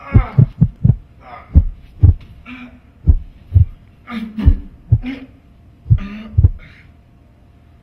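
Heartbeat sound effect, fast at first, then slowing to pairs of beats further and further apart until it stops about six and a half seconds in: a heart giving out. A man's strained groans and gasps come between the beats.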